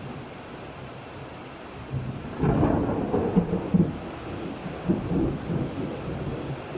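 Thunderstorm: a steady wash of rain, then about two seconds in a clap of thunder breaks in and rolls on in uneven rumbling swells for several seconds.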